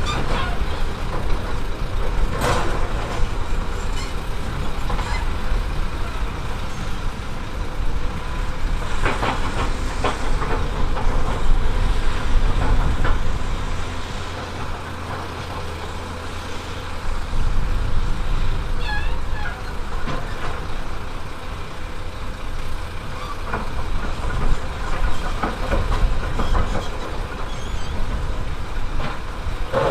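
Heavy earthmoving machine's diesel engine running steadily with a low rumble, with occasional metallic clanks. The engine note drops and evens out for a few seconds around the middle, then picks up again.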